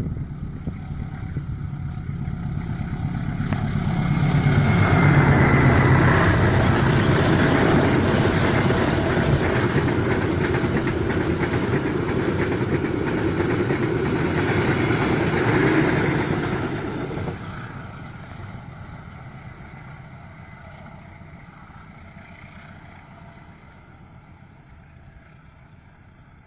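Passenger train headed by a CC201 diesel-electric locomotive passing. The low engine hum and wheel-on-rail noise build over the first few seconds and stay loud. About 17 seconds in the noise drops sharply as the end of the train goes by, then fades away.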